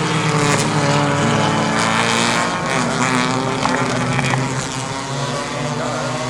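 Several race car engines running at speed together, their overlapping pitches rising and falling as the cars go by.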